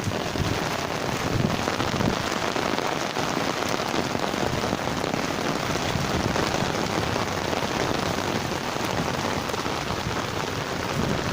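Steady heavy rain falling and pattering on surfaces, an even continuous hiss.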